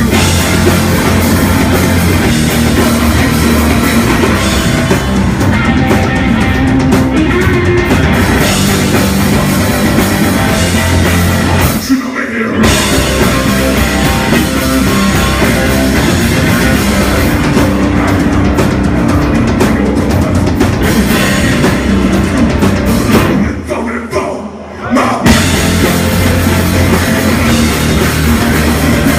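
Rock band playing loud live, drum kit prominent; the music stops for an instant about twelve seconds in, and again for about a second and a half near the end before the whole band crashes back in.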